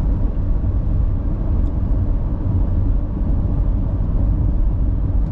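Steady low rumble of a vehicle driving up a mountain highway: engine and road noise with no distinct events.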